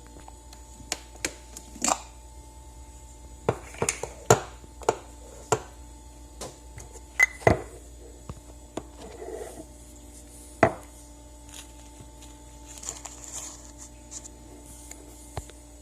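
Irregular sharp clinks and knocks of cups and kitchen utensils being handled, in clusters with pauses between, over a steady faint hum.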